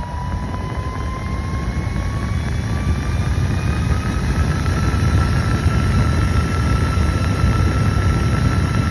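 Handheld mini fan running at high speed: a thin motor-and-blade whine that rises slowly in pitch as it keeps spinning up, over a loud rush of air blowing onto the microphone.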